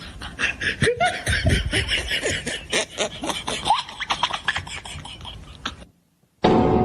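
A person laughing in quick, broken bursts, which cut off suddenly about six seconds in; music starts right after a short gap.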